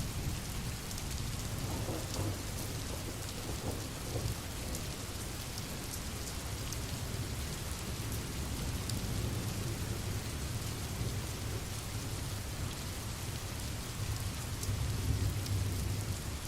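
Steady rain falling, with a low rumble underneath that swells near the end.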